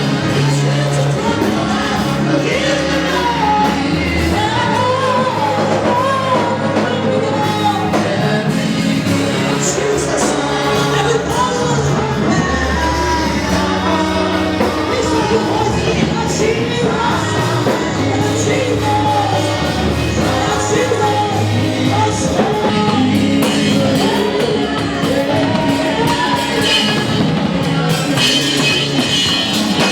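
Live gospel worship music: a singer leading a song over a band with steady bass notes.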